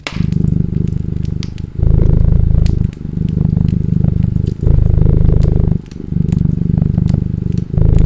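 A domestic cat purring close up, a rough low rumble that swells and dips with each breath in and out, about every one to two seconds. Sharp scattered pops of a crackling wood fire sound over it.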